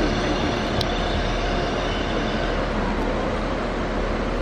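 Transport for Wales Class 197 diesel multiple unit running slowly through the station: a steady low engine drone with wheel noise.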